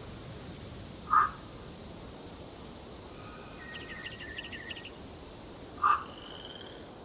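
Wild birds calling in a forest: two short loud calls about five seconds apart, a fainter twittering phrase between them and a thin high note at the end, over a steady background hiss.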